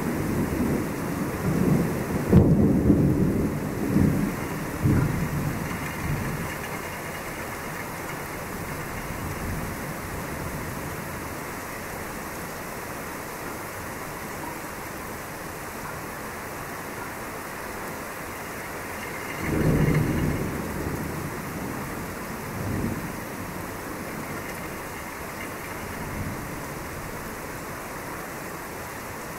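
Thunder rumbling over steady rain: a long rolling rumble in the first several seconds, another clap about twenty seconds in, and fainter rumbles after it.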